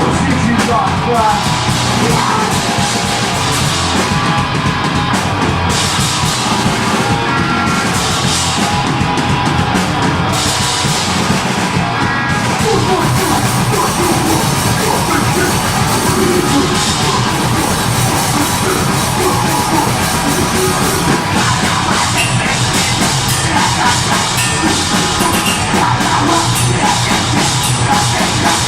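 A deathgrind band playing live: heavily distorted guitars and fast, pounding drums, with shouted vocals over them, loud and dense with no breaks.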